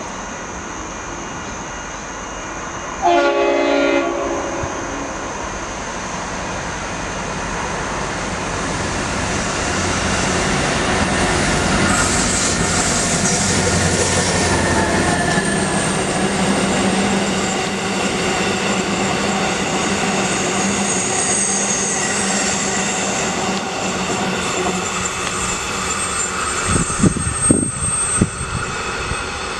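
A train sounds one short horn blast of about a second, a few seconds in. It then runs past with a steady rumble and rail noise that builds and holds. A few sharp knocks come near the end.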